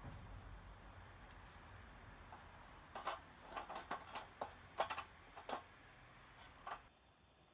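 A quick, irregular run of faint light knocks and clicks over a low steady rumble, starting about three seconds in and stopping shortly before the end.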